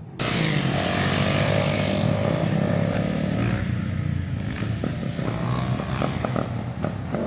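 Dirt bike engines running and revving close by. They cut in abruptly just after the start, and their pitch wavers up and down.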